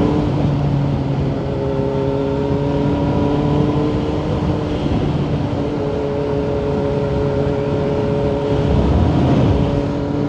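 Kawasaki Z900's inline-four engine through a Yoshimura exhaust, running at a steady cruising pitch while under way, with a slight rise in revs. A brief low rumble comes about nine seconds in.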